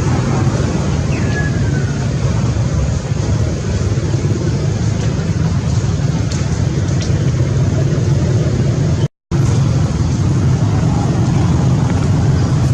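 Steady, loud engine rumble, like a running motor vehicle or boat engine, with a faint short falling squeak about a second in. The sound cuts out completely for a moment about nine seconds in.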